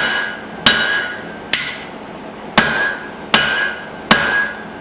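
Blacksmith's hand hammer striking hot spring steel on the anvil, six blows at an uneven pace of about one every three-quarters of a second, each ringing briefly. This is a forging heat drawing out and tapering a hatchet head on the drift.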